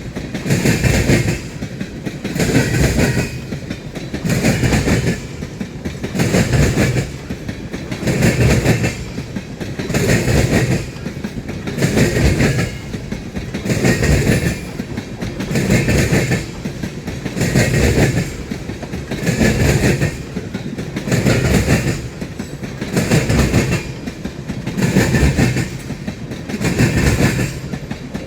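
Freight train cars rolling past, wheels clacking over rail joints in an even rhythm of loud clatters about every two seconds.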